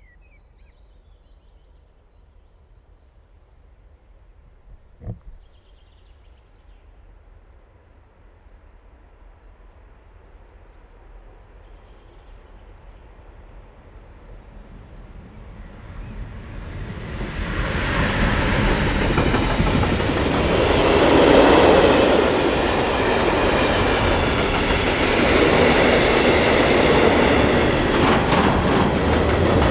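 Freight train approaching and passing close by: a faint background with one sharp click about five seconds in, then the rumble of the wagons' wheels on the rails swells in from about fifteen seconds and stays loud.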